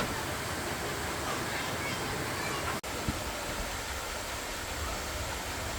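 Steady rushing noise, like running water or wind on the microphone, that cuts out for an instant a little before halfway.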